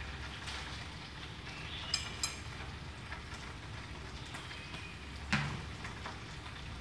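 Chicken wings frying in oil in a pan over low heat: a steady gentle sizzle with scattered crackles. Two sharp metallic clicks come about two seconds in, and a louder knock just after five seconds.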